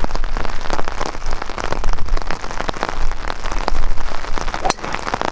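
Heavy rain pattering as a dense stream of drops. Near the end, a single sharp crack of a golf driver striking the ball off the tee.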